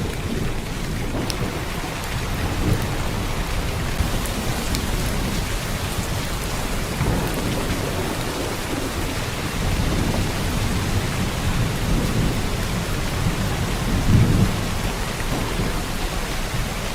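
Heavy downpour of rain, a steady even hiss, with a few low rumbles rising under it; the strongest rumble comes about fourteen seconds in.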